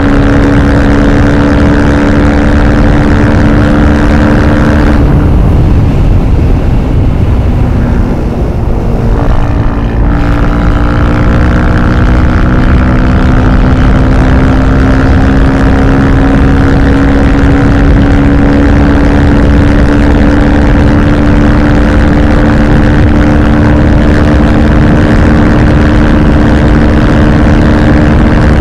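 Husqvarna FE 450 supermoto's single-cylinder engine with FMF Powercore 4 exhaust running under steady throttle while riding, with wind rushing. About five seconds in the throttle closes and the note breaks up, then about ten seconds in it picks up again and rises slowly in pitch.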